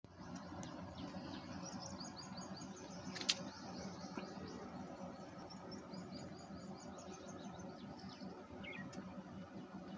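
Small birds chirping in quick runs of short, high notes over a steady background hiss, with one sharp click about three seconds in.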